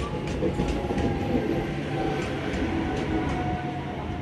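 Southern Railway suburban electric (EMU) train moving past along the platform: a steady rumble of the carriages with the wheels clicking irregularly over rail joints.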